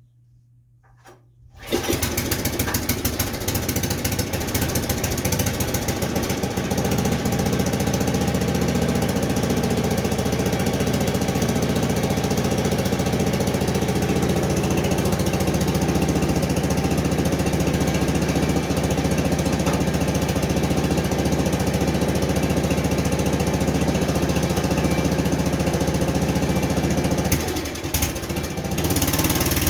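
Small gas engine of a Frontier OS23 portable bandsaw mill starting about a second and a half in and then running steadily. The sound dips briefly near the end before picking up again.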